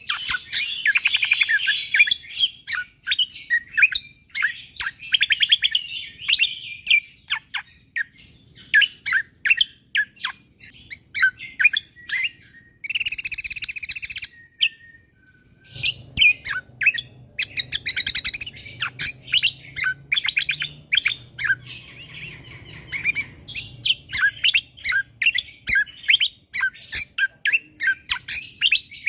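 A cucak kombo (kecial kombo) singing 'gacor': a fast, tightly packed series of sharp chirps and trills, with a short harsh buzzy burst about halfway through.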